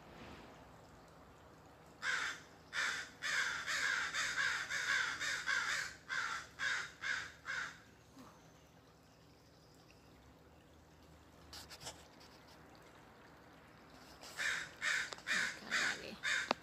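Crows cawing: a run of many quick, repeated caws from about two seconds in, a quiet stretch, then another run of caws starting near the end.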